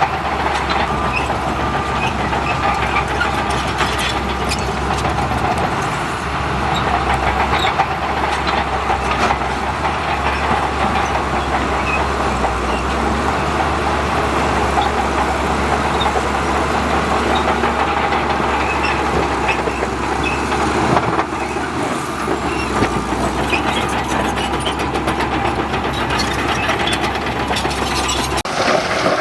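Heavy diesel earthmoving machinery running steadily under load, with a continuous low rumble and frequent metallic clanks and rattles. The sound cuts off abruptly near the end.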